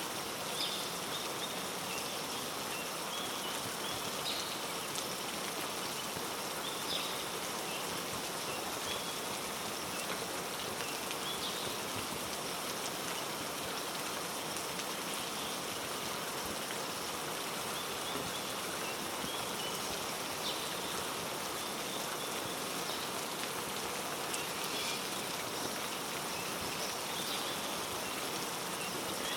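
Steady heavy rain falling on rainforest foliage, an even hiss with scattered short high ticks of drops.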